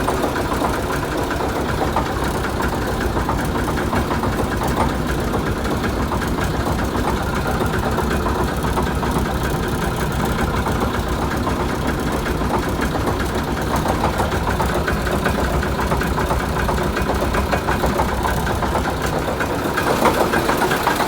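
Praga V3S truck's air-cooled six-cylinder Tatra diesel idling steadily with a rapid diesel clatter, still cold after a winter start following long standing. It runs slightly louder near the end.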